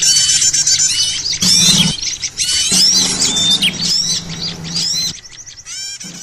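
Busy chorus of many small birds chirping and twittering over one another in quick, overlapping whistles: a noisy lure call for trapping small birds. A low steady hum runs under it in stretches. The calls thin out about five seconds in, with one last burst of chirps near the end.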